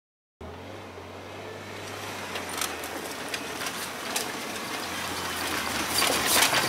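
A Jeep Wrangler JK's engine running with a steady low drone, with scattered clicks and rattles over it. The sound cuts in suddenly after a moment of silence and grows louder toward the end.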